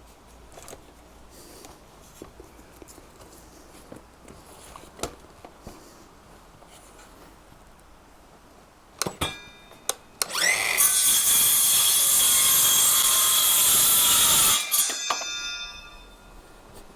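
A power tool starts about ten seconds in, runs loud and steady with a whine for about four and a half seconds, then winds down with a falling whine. Before it there are only faint clicks and a couple of sharper knocks from handling the wood.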